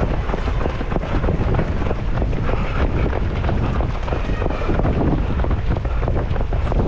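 Strong wind buffeting the microphone of a runner's camera, a loud, steady low rumble that wavers without a break.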